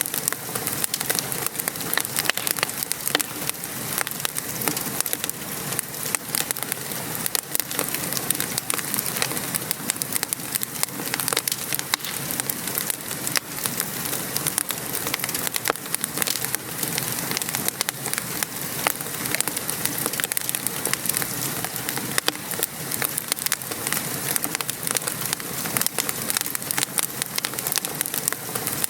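Wood fire crackling in a fireplace, with many small irregular pops, over the steady patter of rain.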